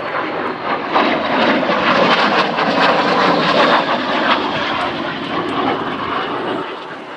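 BAe Sea Harrier FA2's Rolls-Royce Pegasus vectored-thrust turbofan running at high power: a loud, crackling jet rush that swells over the first seconds and fades near the end.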